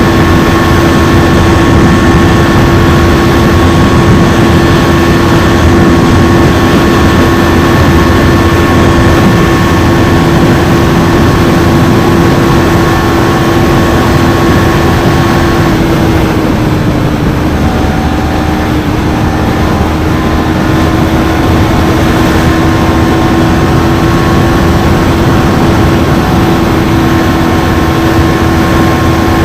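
KTM Duke 390's single-cylinder engine running at high, steady revs under way, with heavy wind rush over the microphone. The engine note drops briefly a little past halfway and then climbs back to a steady pitch.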